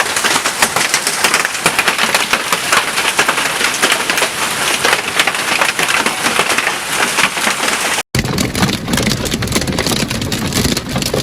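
Hail pelting down in a dense, rapid clatter of impacts on hard surfaces. About 8 s in the sound cuts abruptly to another hailstorm recording with more low rumble under the same clatter.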